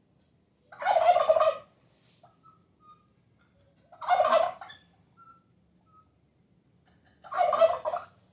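A turkey gobbling three times, each gobble a rattling call of about a second, a little over three seconds apart.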